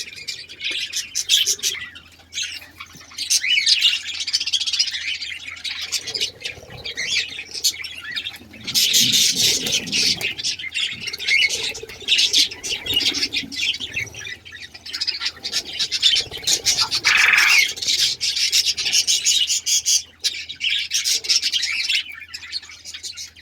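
A crowd of cage birds, budgerigars and canaries, chirping and squawking constantly over one another, with busier flurries about a third of the way in and again past the middle.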